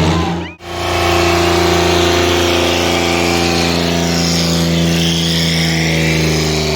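New Holland tractor diesel engines running steadily at high power during a tractor tug-of-war pull. The sound drops out briefly about half a second in, then the engine note resumes, even and unbroken.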